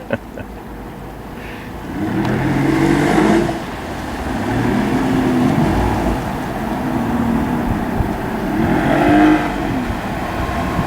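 Motorboat's outboard engine running past on the water, its note rising and falling several times and getting louder from about two seconds in.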